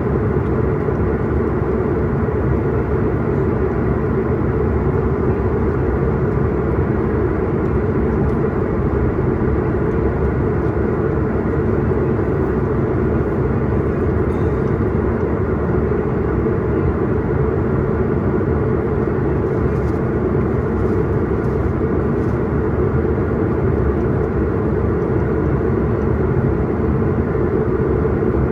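Steady airliner cabin noise heard inside the passenger cabin: engine and airflow noise, deep and even, with no change in pitch or level.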